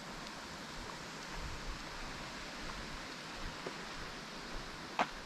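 Outdoor wind noise: a steady hiss with low, uneven buffeting on the microphone, and faint rustling steps. One short sharp click about five seconds in.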